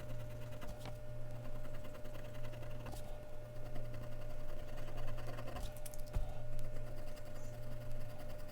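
Mechanical pencil scratching on Bristol paper in rapid, repeated strokes, with a few sharper clicks, over a steady low hum.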